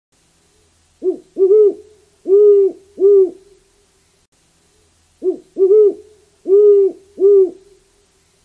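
An owl hooting in two phrases of four low hoots each, a short first note and then three longer ones, with a pause of about two seconds between the phrases.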